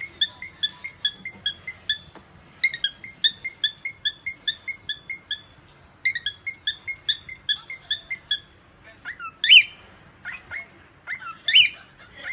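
Pet parrot chirping in quick repeated runs of short notes, about four a second, then giving two louder, sweeping calls near the end.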